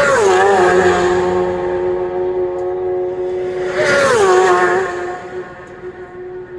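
Two racing motorcycles flying past at high speed, one right at the start and one about four seconds later; each engine note drops sharply in pitch as the bike goes by, then fades toward the end.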